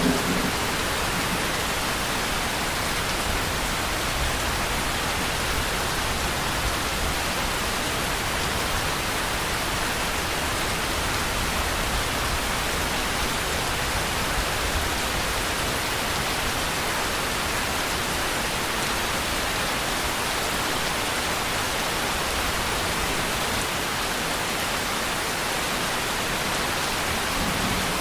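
Steady, dense rain falling, an even hiss with occasional faint drop ticks.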